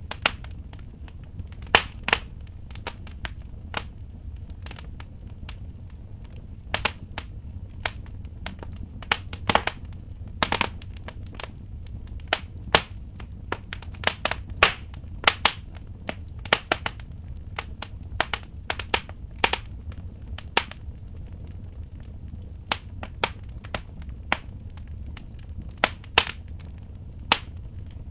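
Wood fire in a fireplace crackling, with sharp, irregular pops over a steady low rumble.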